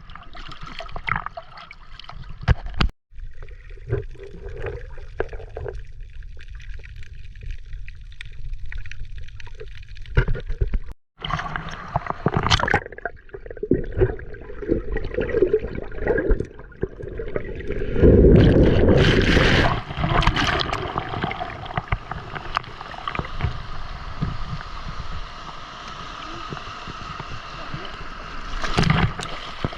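Water splashing and gurgling, uneven and irregular, broken by abrupt cuts, with a louder stretch of splashing a little past the middle.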